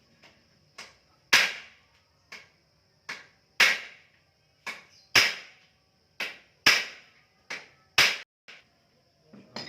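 Hammer blows on a Kawasaki Ninja RR engine part during disassembly: about a dozen sharp metallic strikes at uneven intervals, roughly one a second, the heavier blows alternating with lighter taps.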